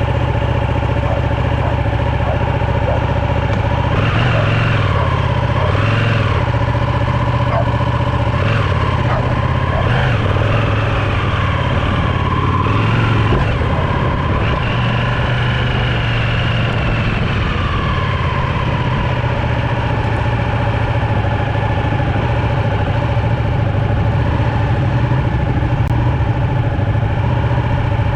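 Motorcycle engine running steadily near idle, its pitch rising and falling a few times between about four and eighteen seconds in.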